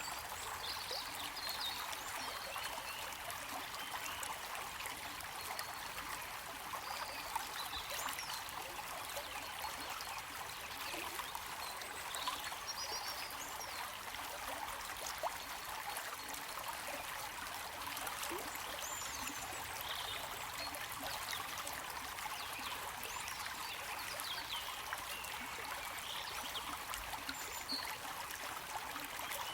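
A stream of water running and trickling steadily, with faint high chirps here and there.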